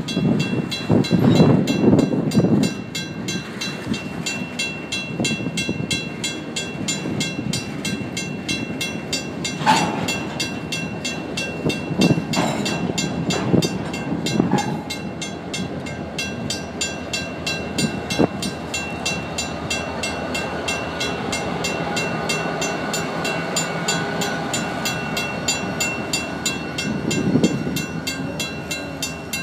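Empty freight hopper cars rolling past with rumble and irregular clanks of wheels and couplers, while a grade-crossing mechanical bell rings steadily with even strokes. In the second half a diesel locomotive running as the train's rear unit passes, adding a steady engine hum.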